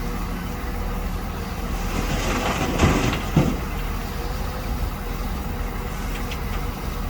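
Shantui DH17-C2 bulldozer's diesel engine running steadily under work, with a louder rush about two seconds in and two metallic clanks close together in the middle.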